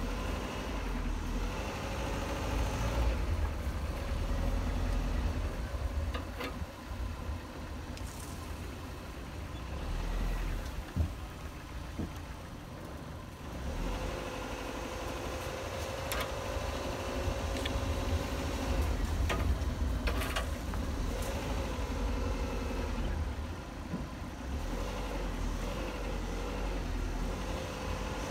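Modified Dodge Neon's 2.0-litre four-cylinder engine running at low revs, its note rising and falling with the throttle as the car crawls over a rough dirt trail. Occasional short knocks from the car bumping over the ground.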